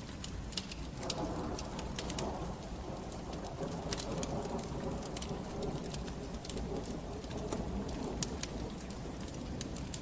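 Wood fire in a fireplace crackling, with frequent sharp pops over a steady low rumble; a denser hiss comes in about a second in.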